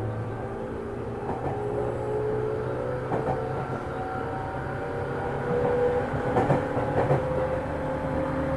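Running sound of a JR 205 series electric train heard inside its motor car: traction motor and gear whine rising slowly as the train gathers speed, over a steady rumble, with a few wheel clacks over rail joints about six to seven seconds in.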